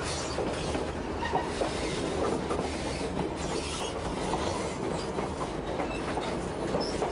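A narrow-gauge passenger train rolling along the track: a steady rumble of steel wheels on the rails, with a light clickety-clack of rail joints and a few brief, faint wheel squeals.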